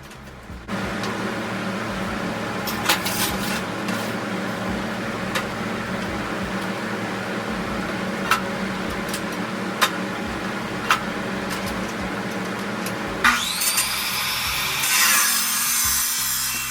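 A power saw running and cutting, a steady noisy drone with a low hum and scattered sharp clicks. Around thirteen seconds in, a motor spins up with a rising whine that levels off, followed by harsher high-pitched cutting noise.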